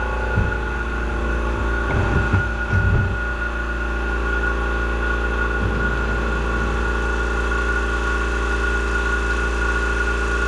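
Honda HRR216 push mower's single-cylinder four-stroke engine running steadily at idle, warming the oil before an oil change, with a few short knocks in the first few seconds.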